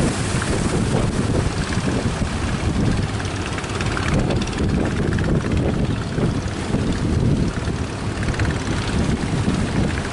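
Strong wind buffeting the microphone, with surf beneath it.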